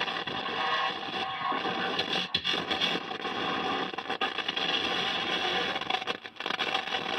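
LA4440 amplifier playing music through its speaker, buried under harsh, steady noise and distortion, with a few brief dropouts; this is the kind of sound fault the repair is meant to cure.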